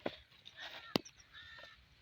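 Faint calls of a bird, two short calls, with a couple of sharp clicks about a second apart.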